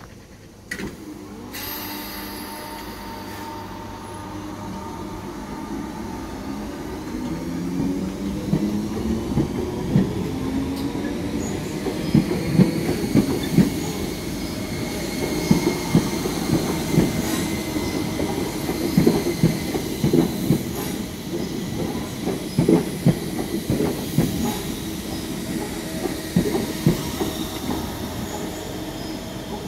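A pair of Class 313 electric multiple units pulling out of the station. The motors whine, rising in pitch as the train speeds up, and the wheels then click steadily over the rail joints.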